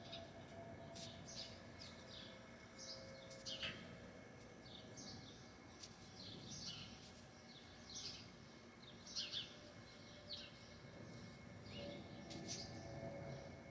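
Small birds chirping faintly, with short, high, falling chirps one to three a second and a few louder ones. A faint steady hum runs underneath.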